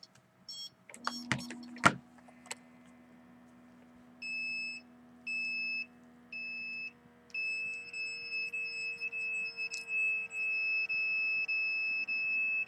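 Automatic blood pressure monitor: a few button clicks, then its cuff pump hums steadily as it inflates, the pitch slowly dropping. From about four seconds in, a high electronic alarm beeps about once a second, then turns into a near-continuous pulsing tone that is the loudest sound.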